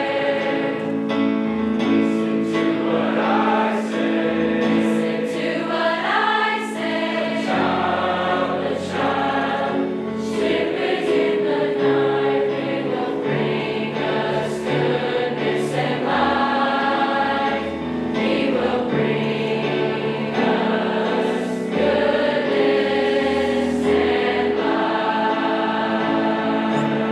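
A high school choir singing a song in parts, with held notes.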